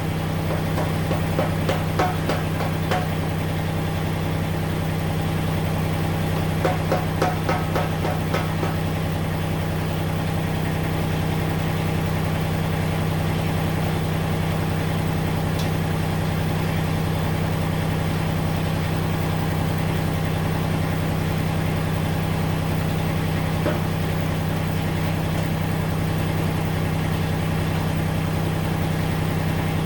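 Massey Ferguson GC1710 subcompact tractor's diesel engine idling steadily. Two short runs of light knocks or clicks come through, about two seconds in and again about seven seconds in.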